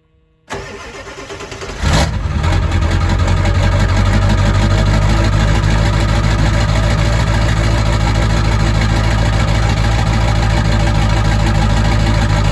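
Ford 7.3-litre Power Stroke V8 turbo-diesel in a 2001 F-250 Super Duty being started: the starter cranks from about half a second in, the engine catches quickly near two seconds and settles into a steady idle.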